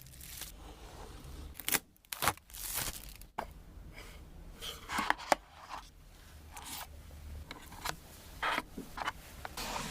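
Phone packaging being opened by hand: irregular tearing, scraping and rustling of cardboard and plastic wrap, with several sharp clicks and knocks.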